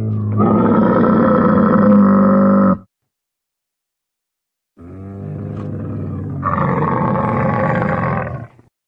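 Bactrian camel calling: two long, rough, groaning bellows, each several seconds, with a gap of about two seconds between them. The second bellow swells louder about a second and a half in.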